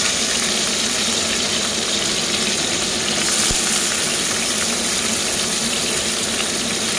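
Sliced shallots and garlic sizzling steadily in hot cooking oil in a wok.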